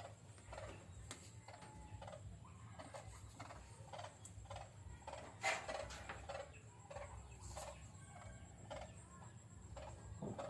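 A jujuk (tatapaian) bird calling in a series of short, sharp notes, roughly two a second, one louder about five and a half seconds in.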